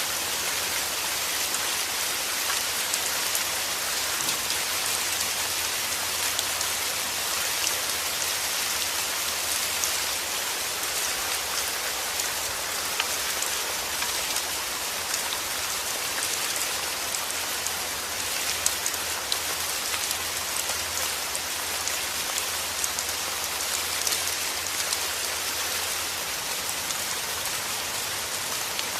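Heavy rain falling steadily: a dense, even hiss with many small drop hits. A faint low rumble lies underneath and fades out near the end.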